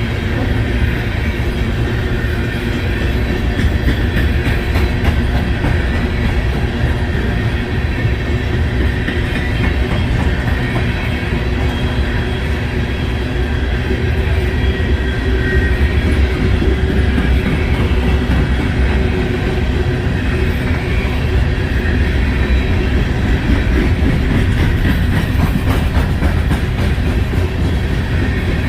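Freight train rolling past at close range, its cars' steel wheels running over the rails in a steady, loud rumble.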